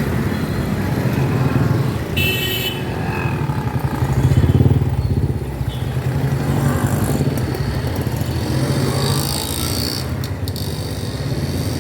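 Road traffic with motorcycle engines running close by, a steady low rumble that swells about four seconds in. A brief high-pitched sound comes about two seconds in.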